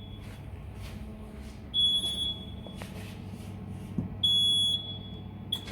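Automatic car A/C recharge station beeping: single high-pitched beeps repeating about every two and a half seconds over a steady low hum, as the machine moves on to injecting refrigerant.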